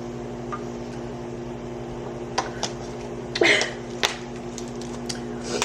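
A steady electrical hum from an appliance, with a few light clicks and a short hiss-like burst about three and a half seconds in.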